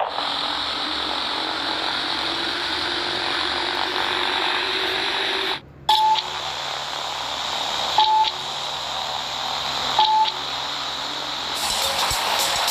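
Steady rushing noise, briefly cutting out a little before halfway, then three short high beeps about two seconds apart.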